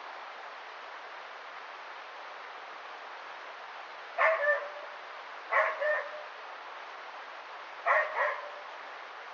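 A dog barking: three pairs of quick barks, about a second and a half to two seconds apart, over the steady rush of a river.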